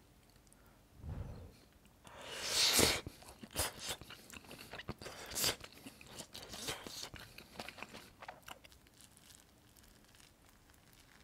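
A person chewing a mouthful of cabbage rice with beef curry, close to the microphone: a soft thump about a second in, a loud crunchy bite about two seconds in, then steady crunchy chewing that dies away after about eight seconds.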